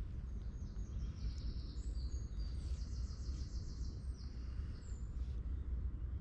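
Songbirds singing high, short phrases, including a fast trill through the middle, over a steady low rumble of outdoor background noise.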